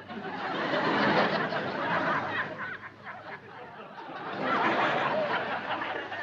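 Sitcom laugh track: a crowd laughing in two waves, the first swelling up and fading by about three seconds in, the second swelling again about four seconds in.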